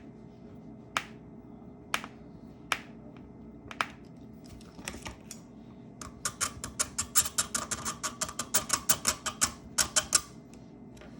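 A small metal repair tool with a worn tip clicking against the phone's small internal parts, struggling with a stubborn part that will not open. It gives scattered sharp clicks about once a second, then a quick run of several clicks a second for about four seconds.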